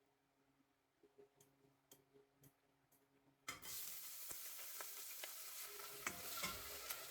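A few faint light clicks, then about three and a half seconds in food hits a hot pan and starts sizzling loudly, with scattered clicks of a utensil in the pan as it fries.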